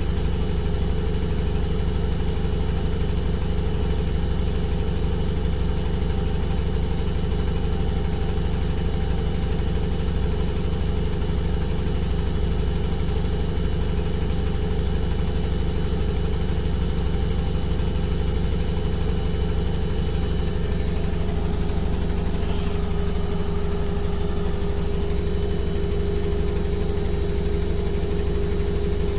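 Washing machine running with a steady, even hum. About two-thirds of the way through, one of its tones grows a little stronger.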